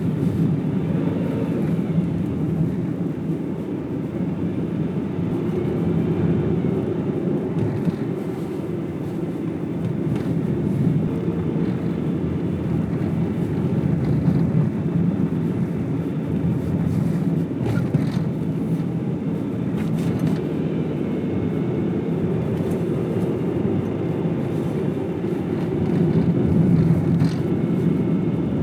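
Car driving along a mountain road: steady engine and tyre road noise, with a low rumble that swells and eases slightly as the car's speed changes.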